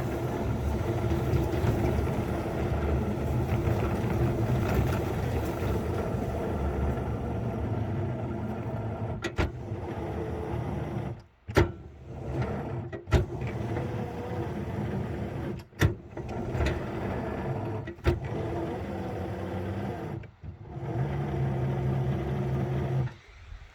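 Small engine running steadily, broken by several sudden short dropouts with sharp clicks in the second half, then stopping just before the end.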